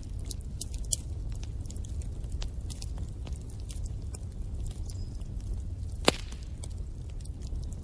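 Wood fire crackling in a fireplace: frequent small sharp pops over the steady low rumble of the flames, with one louder pop about six seconds in.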